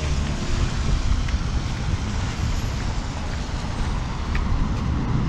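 Steady road traffic noise of a city street, a continuous low rumble of passing vehicles.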